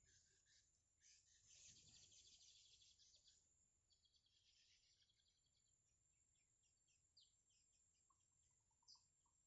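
Faint, high-pitched bird chirping: a quick run of twittering chirps about a second in, then scattered single chirps and a few softer, lower notes near the end.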